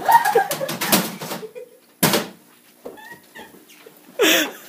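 Several sharp knocks, the loudest about two seconds in, with short high voice sounds between them and a brief noisy cry a little past four seconds.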